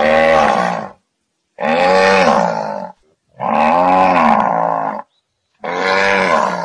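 A farm animal calling four times: long pitched calls of one to one and a half seconds each, each rising and then falling in pitch, with short silent gaps between them.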